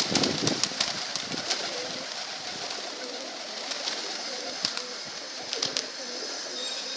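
Domestic pigeons cooing in a loft, with quick sharp clicks and taps, many in the first couple of seconds and a few more later.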